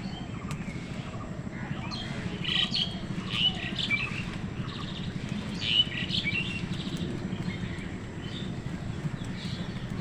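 Birds chirping and calling in quick, high, overlapping bursts, busiest from about two to six seconds in, over a steady low rumble.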